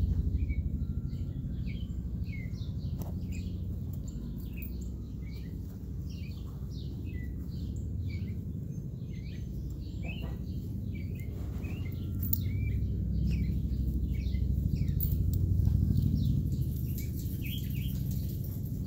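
Birds chirping, many short separate calls throughout, over a steady low rumble.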